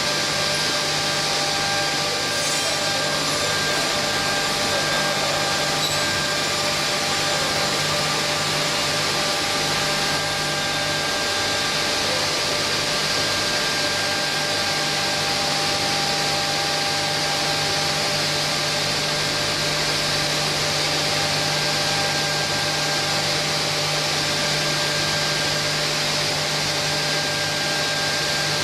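CNC door-frame grooving machine running steadily: an even mechanical whirr and hiss with several constant whines, holding the same level throughout.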